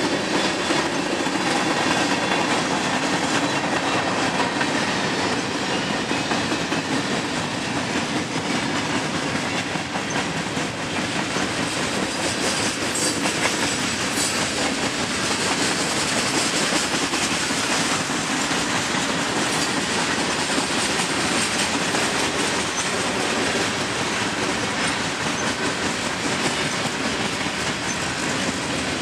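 A mixed freight train's cars (tank cars, boxcars, gondolas and covered hoppers) rolling past steadily, steel wheels running on the rails.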